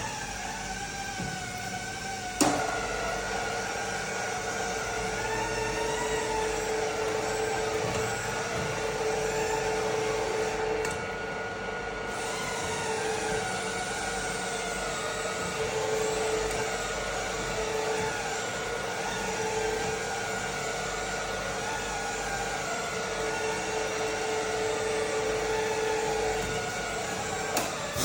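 Electric drill running with a wavering whine as it bores small weight-removing balancing holes into the steel clutch cover. There is a sharp click about two and a half seconds in.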